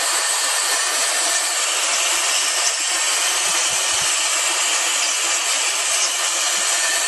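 K&F Concept BS400 cordless air duster running steadily with its finest nozzle attached: a loud, even rush of air from its high-speed motor.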